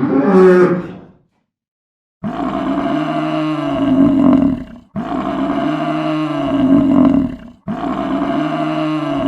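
A short animal call, then one long, drawn-out animal call heard three times in a row with identical shape, each about two and a half seconds long.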